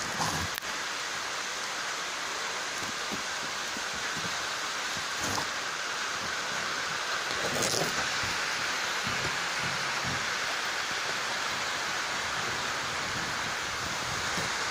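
Heavy rain pouring steadily over rooftops, a dense even hiss. A couple of brief knocks about five and eight seconds in.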